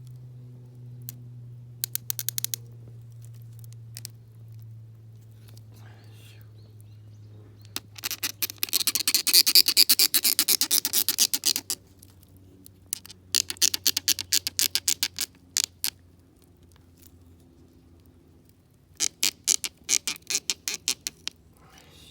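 A blade cutting and scraping into cherry wood in quick raspy strokes, coming in four bursts, the longest and loudest in the middle.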